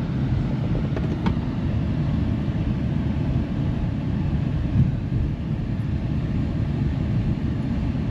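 Steady road and engine rumble heard inside a moving car's cabin, with a brief faint click about a second in.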